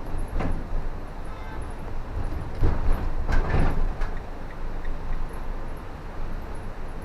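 Car driving on a wet road: steady tyre and road noise, with louder swishes about half a second in and again around three seconds in.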